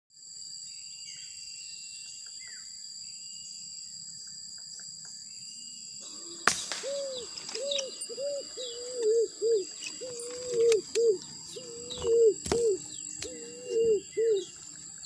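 A dove cooing in repeated low phrases of several notes each, starting about six seconds in. Underneath run a steady high buzz of insects and faint chirps of small birds. Two sharp clicks come, one as the cooing begins and one near the end.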